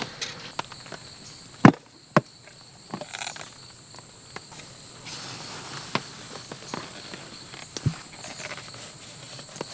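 Insects trilling steadily in the background, with scattered knocks and clicks of handling or footsteps; the loudest are two sharp thumps about two seconds in.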